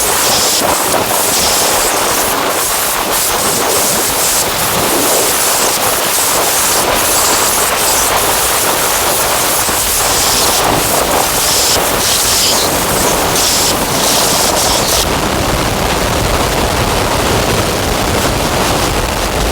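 Harsh noise drone from a modular synthesizer (Make Noise Strega, Maths and Morphagene) run through Death By Audio Evil Filter and Absolute Destruction fuzz: a dense wash of hiss with rapid crackling clicks. About three-quarters of the way through, the crackling stops, the highest end falls away and a low rumble grows.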